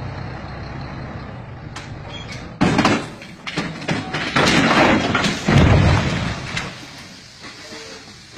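A truck crash: a steady engine rumble, then a sudden loud impact about two and a half seconds in, followed by several seconds of banging and crashing with a heavy thud near six seconds, dying away toward the end.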